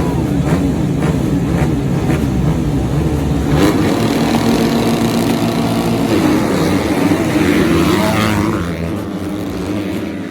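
Motocross bike engines revving up and down, with several engines overlapping, rising in pitch around the middle and fading away near the end.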